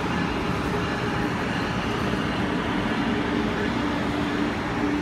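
Amtrak Acela Express electric trainset rolling past along the platform: a steady rumble of wheels on rail with a constant low hum.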